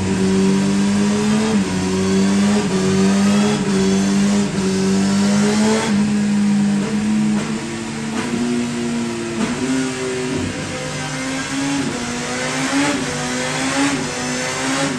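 Kawasaki ZX-10R's inline-four engine running through a LeoVince SBK slip-on silencer, held at fairly steady revs with small rises and dips in pitch.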